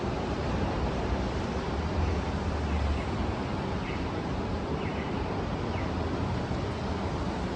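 Heavy rain falling on a city street: a steady, even hiss, with a low rumble swelling briefly about two seconds in.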